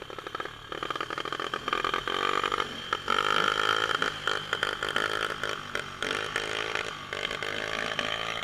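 Dirt bike engine running and revving, its pitch rising and falling several times.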